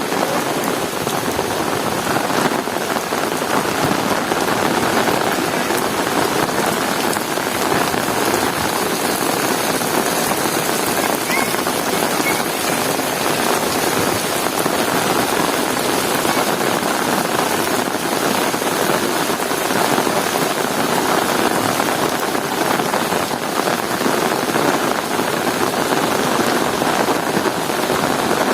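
Heavy rain pouring steadily, a dense even hiss of drops falling on hard surfaces.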